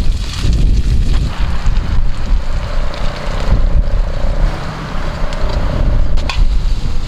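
Strong mountain wind buffeting the microphone: a loud, gusting low rumble. A faint steady tone sounds through the middle, and a short click comes near the end.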